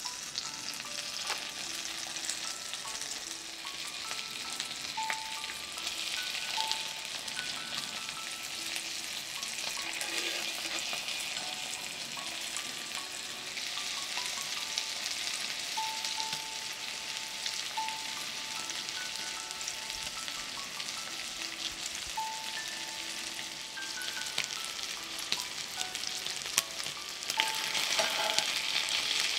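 Butter sizzling and crackling in a cast iron skillet as bacon-wrapped, egg-dipped bread rolls fry. The sizzle grows louder near the end as a roll is turned over with tongs.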